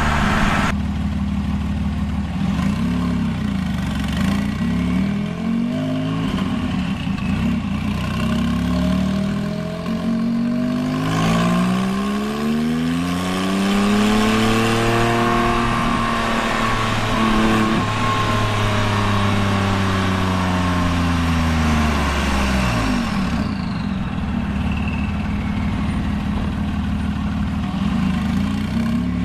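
2001 Porsche 996 911 Turbo's twin-turbo flat-six, heard through a straight-piped turboback exhaust while driving. The revs climb and fall several times early on, then make one long smooth rise and fall in the middle, with a faint falling whistle as they drop, before the engine settles to steadier running.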